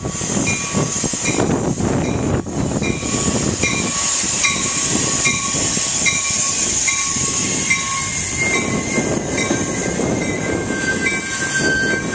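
Metra commuter train arriving with its cab car leading, the stainless bilevel cars rolling past close by on steel wheels. A high ringing tone recurs a little under twice a second, and a thin steady squeal sets in near the end as the train slows.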